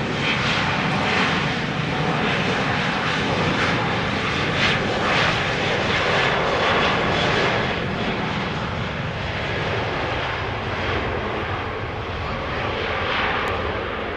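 Boeing 737-800 jet engines (CFM56-7B turbofans) at takeoff power: a loud, steady jet noise that eases slightly in the second half.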